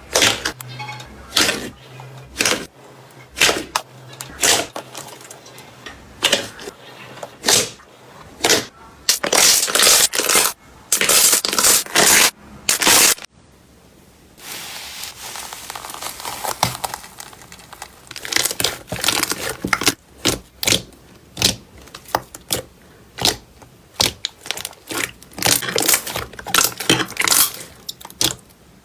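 Slime being squeezed, pressed and stretched by hand, making a run of sharp pops and crackles. The pops come thickest in the middle, break off briefly, then go on with a different texture, as a new clip begins.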